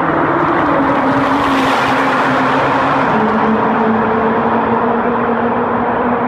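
Nissan GT-R R35's twin-turbo V6 exhaust running loud at high revs with a steady drone, its pitch stepping down about three seconds in.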